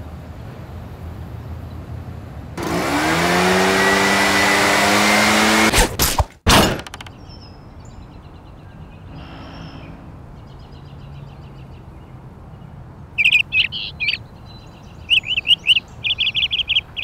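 Birds chirping rapidly and loudly, in quick high bursts, over the last few seconds. Earlier a loud, roaring, machine-like noise with a hum that rises and then holds lasts about three seconds, followed by a few sharp knocks.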